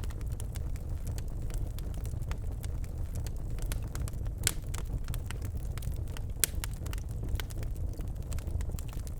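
Birch logs burning in a fireplace: a steady low rumble of flame with irregular crackles and pops, the sharpest about four and a half and six and a half seconds in.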